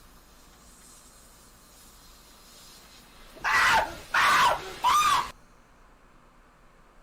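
A person screaming three times in quick succession, each scream loud, high-pitched and about half a second long, a little past halfway through.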